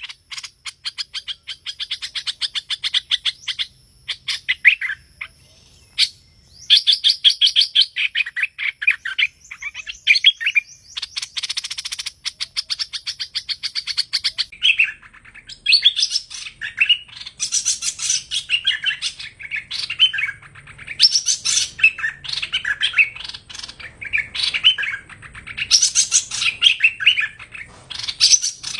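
Hoành hoạch song, the bulbul kept by Vietnamese bird hobbyists: rapid chattering phrases of quick, high notes, repeated with brief pauses. It is the song played as a call to lure the bird into a trap.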